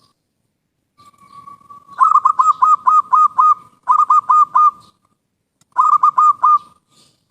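Zebra dove (perkutut) song: a soft coo about a second in, then three quick runs of rapid staccato coos, about seven notes, then four, then four.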